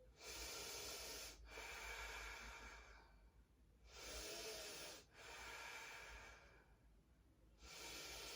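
A woman's slow, deep breathing, faint: long drawn inhales and exhales, about two full breaths and the start of a third.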